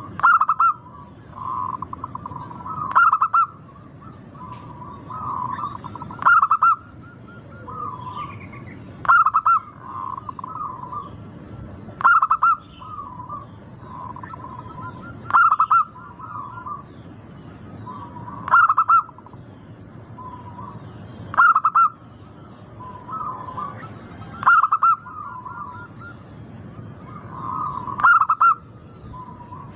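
Zebra doves (local perkutut) singing: a loud, clear trilling coo repeats about every three seconds, with softer cooing in between.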